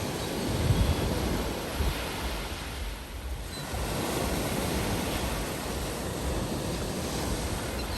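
Sea waves washing onto the shore in a steady rush, easing briefly about three seconds in and then building again, with wind buffeting the microphone as a low rumble.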